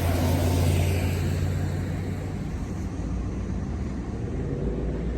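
Car engine running, heard from inside the car as a steady low hum with cabin noise; the hum is strongest for the first two seconds or so, then eases.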